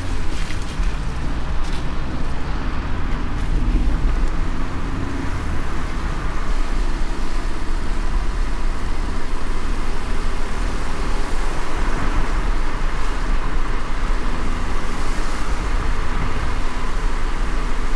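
Car driving on a wet road in light rain: a steady low road rumble with tyre hiss and a faint engine hum.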